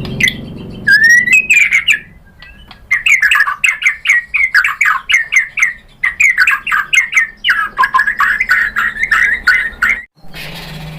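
White-rumped shama singing: a whistled note, then a long, fast string of short sweeping notes, several a second, in energetic full song.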